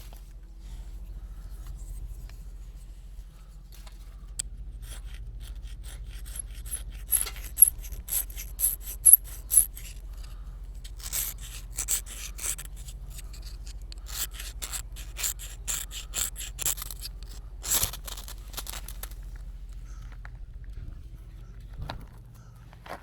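Runs of quick, rhythmic scraping strokes, a few a second, coming in several bursts over a steady low hum.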